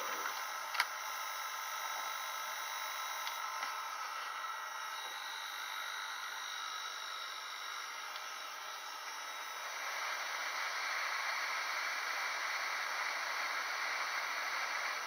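Steady hiss with a few faint, steady whining tones, a single click about a second in, and the hiss growing louder about ten seconds in.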